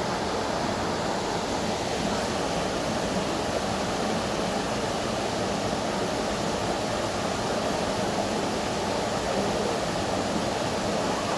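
Tropical waterfall rushing steadily, an even roar of falling water.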